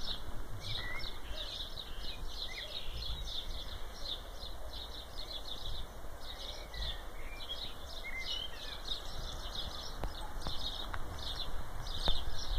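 Birds chirping, with rapid high chirps repeating throughout and a few short whistles, over a low rumble on the microphone.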